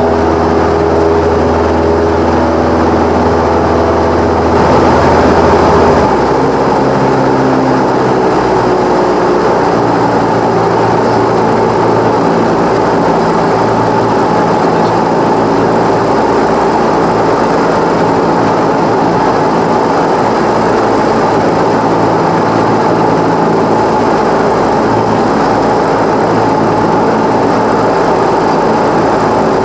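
Cessna 172's piston engine and propeller running steadily. The engine note changes about five seconds in, then holds steady.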